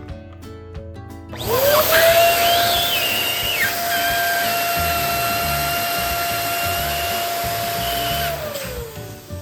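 Electric balloon pump motor spinning up about a second and a half in and running steadily for about seven seconds with a whine and rushing air, then winding down near the end as a balloon is inflated.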